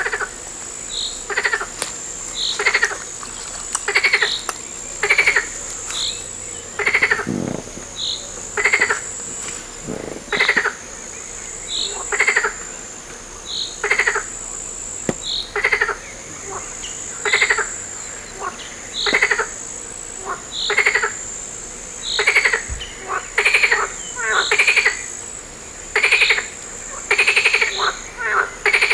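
Frogs croaking in a steady chorus: short pulsed calls about once a second, some louder than others, over a high thin trill that comes and goes.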